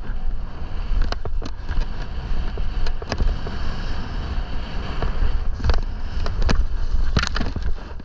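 Wind buffeting the microphone during a fast descent through moguls, with sharp swishes and scrapes of snow at each turn; the longest, loudest spray of snow comes near the end.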